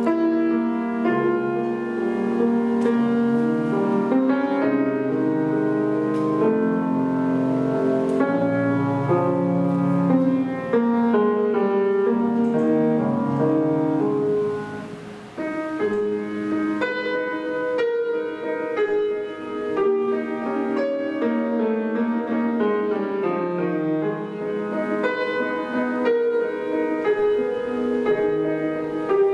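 Solo piano playing classical repertoire: overlapping sustained notes and chords under a melody. The playing softens briefly about halfway through.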